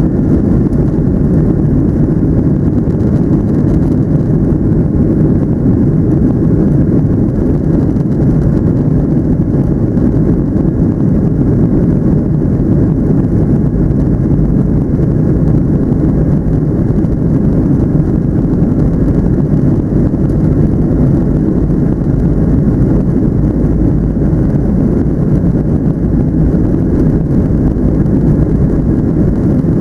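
Steady, loud cabin noise inside a Boeing 737-700 airliner: the low rumble of its CFM56 jet engines and airflow past the fuselage, unchanging throughout.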